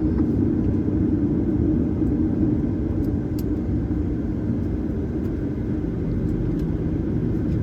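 Steady low rumble of cabin noise inside a Boeing 737-900ER airliner: engines and air system, with a few faint clicks about three seconds in.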